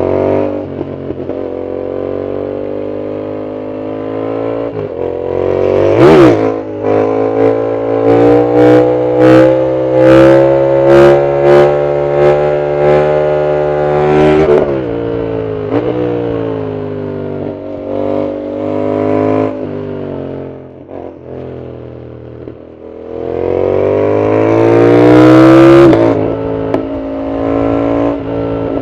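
Yamaha MT-07's CP2 parallel-twin engine through an aftermarket full exhaust, ridden hard: the pitch climbs under throttle and drops at each gear change. A run of sharp cracks comes in the middle, and near the end there is a loud, rising pull to high revs.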